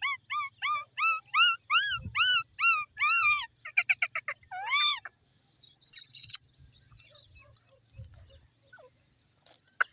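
Parrot calling: a quick run of short, repeated chirps, about four a second, for the first three seconds or so, then a few louder calls and a brief harsh screech about six seconds in, tailing off to faint scattered sounds.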